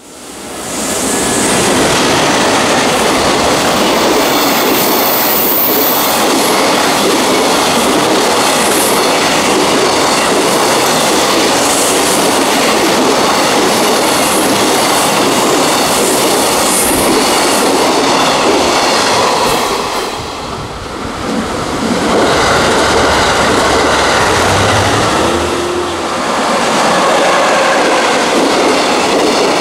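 Freight container train running past close by, its steel wheels rumbling and clacking over the rail joints.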